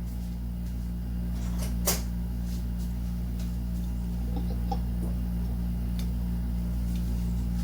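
Steady low hum, with a few light clicks of parts being handled and one sharper click about two seconds in.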